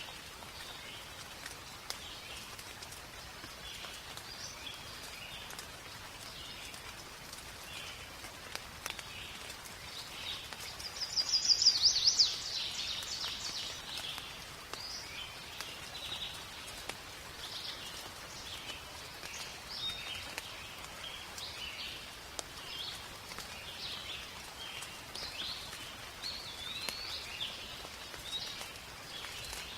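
Rain falling steadily in a forest, with birds calling and singing in short phrases throughout. A loud, fast trill stands out about eleven seconds in.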